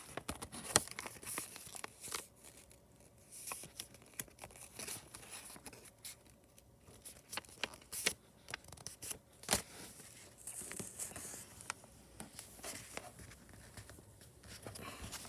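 Sheet of paper being folded and creased by hand: irregular rustles and sharp crinkling clicks, quiet between strokes.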